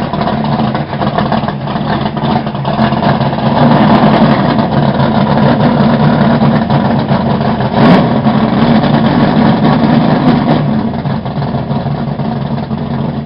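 Camaro drag car's V8 engine idling loudly and steadily. It picks up a little about four seconds in, with a sharp click near eight seconds.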